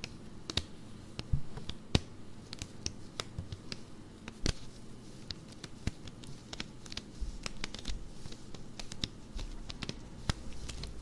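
Fingers and fingernails scratching and tapping on stockings: irregular crisp scratches and clicks, several a second.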